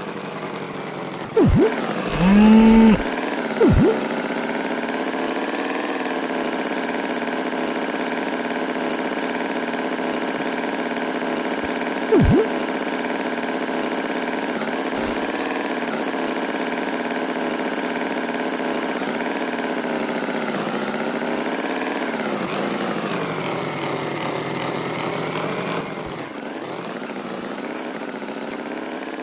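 A motor engine running steadily, its pitch wavering slightly. A few short, louder sounds break in during the first four seconds and once more about twelve seconds in.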